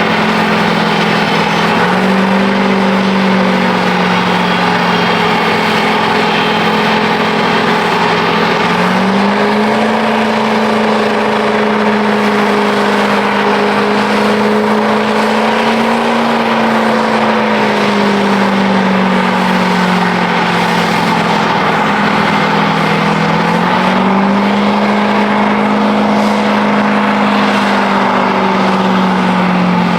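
Diesel truck engine held at high revs, loud and steady, the revs stepping up and dropping back several times.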